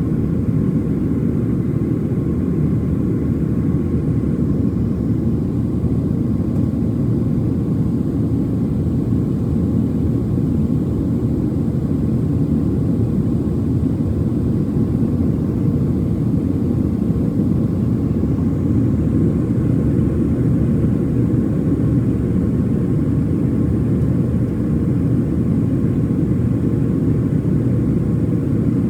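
Cabin noise inside a Boeing 737-700 airliner: the steady, even rumble of its CFM56-7B turbofan engines and the airflow, heard from a window seat, with no change in pitch or level.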